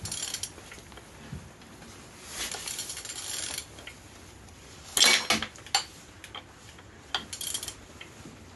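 Metallic clinks and clicks as a used engine is turned over by hand to check that it rotates, with a rattling stretch a little over two seconds in and a loud clank about five seconds in.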